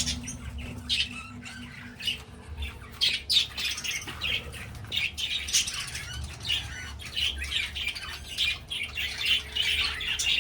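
A flock of small pet parrots chattering together: a dense, unbroken run of short, high chirps and squawks.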